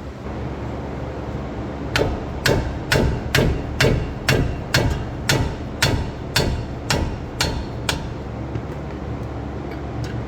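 A hammer striking the truck's front suspension parts, about thirteen sharp blows at roughly two a second, stopping about eight seconds in.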